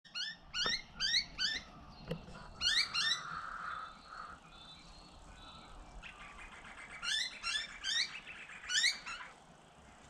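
Birds calling: runs of short, rising, high-pitched calls, three or four in quick succession each time, a little after the start, again around three seconds in, and in a longer run near the end.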